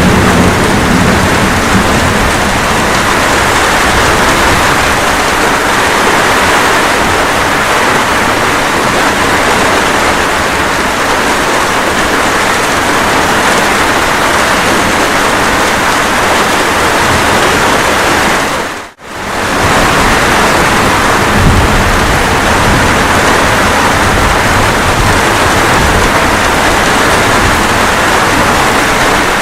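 Steady rain with a low thunder rumble dying away at the start. About two-thirds through, the rain briefly fades out and straight back in.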